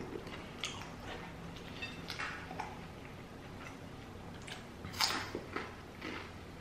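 Close-miked chewing of a crispy fried vegetable egg roll, with scattered soft crunches of the fried wrapper. The loudest crunch comes about five seconds in.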